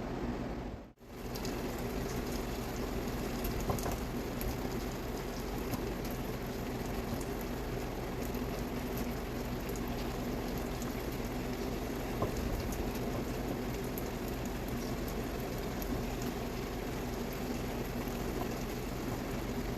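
Chicken thighs bubbling and sizzling in a honey-soy teriyaki sauce in a covered pan on medium-high heat: a steady bubbling with small crackling pops. The sound cuts out briefly about a second in.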